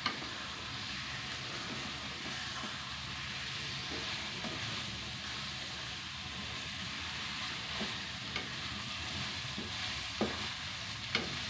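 Fried tofu and spice paste sizzling in a wok while a spatula stirs them, scraping the pan, with a few sharp taps of the spatula against the wok, the clearest near the end.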